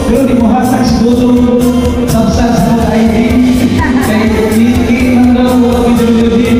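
A man singing into a handheld microphone over backing music, heard through a PA loudspeaker, in long held notes.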